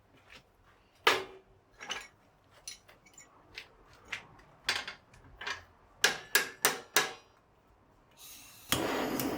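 Tools knocking and clinking on metal in a series of sharp, separate strikes, with a quick run of four about two-thirds of the way through. A steady rushing noise starts near the end.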